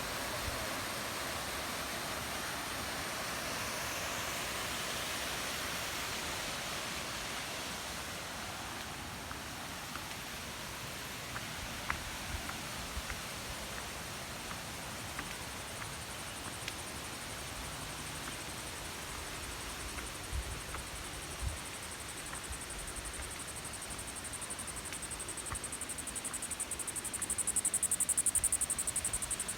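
Steady rush of flowing stream water, with a few faint knocks about two-thirds of the way through. Near the end a high, pulsing insect buzz swells and fades.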